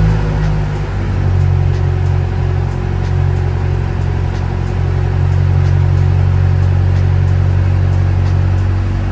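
A 2021 BMW M5 CS's 4.4-litre twin-turbo V8 idling steadily just after starting, with a deep, even exhaust note.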